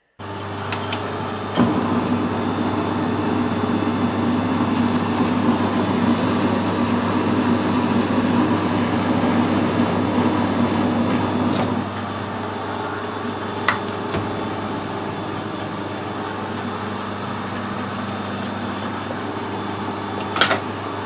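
A workshop machine tool running steadily, a motor hum with several steady tones that drops a little and changes tone about twelve seconds in, with a few short clicks.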